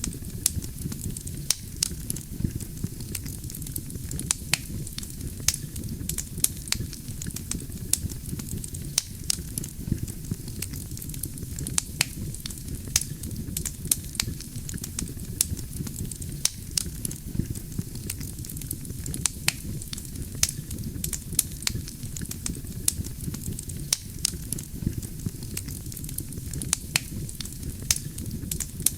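Wood fire burning steadily: a low rumble of flame under frequent sharp crackles and pops from the burning logs.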